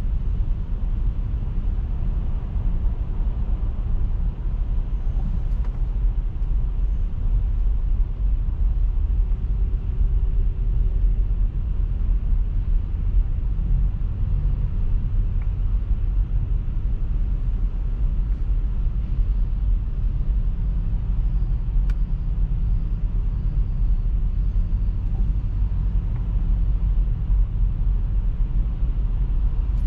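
Car driving, with a steady low road and engine rumble that holds even throughout.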